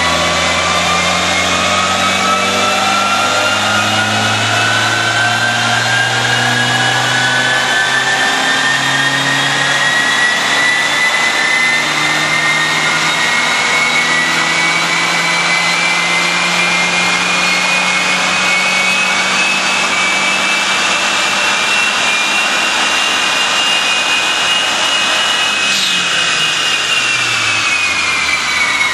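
1988 Mazda 323 GTX's 1.6-litre turbocharged four-cylinder making a dyno pull on an all-wheel-drive Mustang chassis dynamometer, with a whine climbing steadily in pitch for about 26 seconds. Near the end the pitch falls away as the run ends and the rollers wind down.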